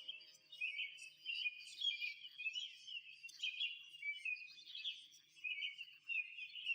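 Birdsong: small birds chirping in a steady stream of short, high calls.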